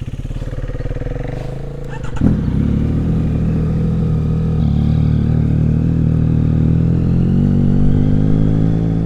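Yamaha MT-09 SP's inline-three engine running through an aftermarket titanium exhaust, just woken up. About two seconds in its note jumps louder and deeper, then holds steady, rising slightly in pitch near the end.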